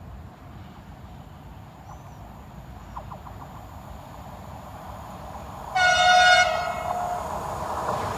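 Horn of an EU44 Husarz (Siemens Taurus) electric locomotive sounding one blast about six seconds in, lasting about a second, its lower note lingering briefly after the upper one stops. Before it, a low steady rumble of the approaching train.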